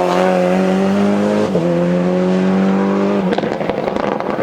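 Fiat Uno Turbo 1.4-litre turbocharged engine in a Fiat Punto race prototype running hard at high, nearly steady revs, with a brief dip about a second and a half in. About three seconds in the engine note cuts off as the throttle closes, followed by a string of crackling pops from the exhaust.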